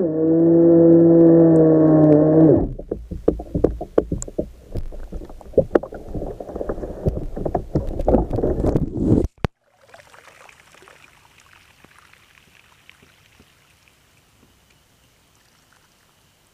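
Steady whine of an RC speedboat's electric motor running at speed, cutting out suddenly after about two and a half seconds. Irregular knocks over a low rushing noise follow and end abruptly, leaving faint water noise that fades away.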